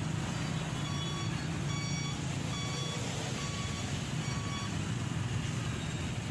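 Motorcycle engine running with steady road noise, over a series of about five short, high electronic beeps roughly 0.8 s apart that stop after about four and a half seconds.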